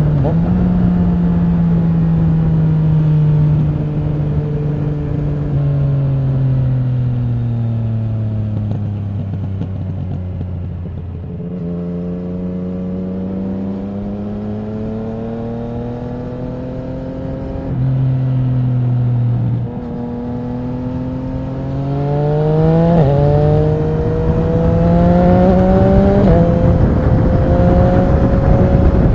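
Yamaha MT-09 SP's inline three-cylinder engine through an Akrapovic racing exhaust, heard from the rider's seat. It winds down for several seconds as the bike slows, then accelerates hard again, the revs rising and dropping back with each gear change.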